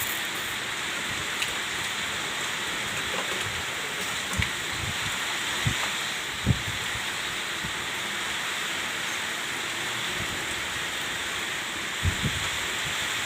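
Steady rush of water, with a few short low thumps.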